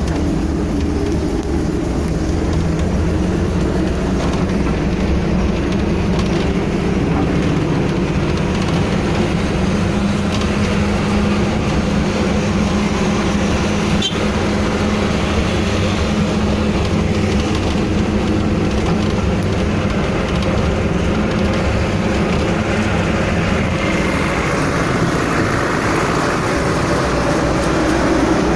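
Steady motor-vehicle engine and road noise, a constant low hum that holds level throughout, as heard while driving.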